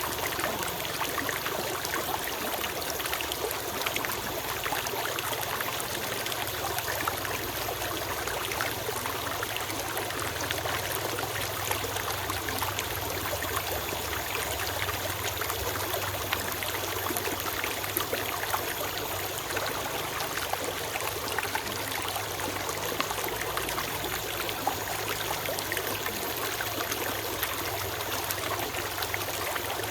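A small forest stream running and trickling over stones, a steady even rush of water with fine splashing flickers.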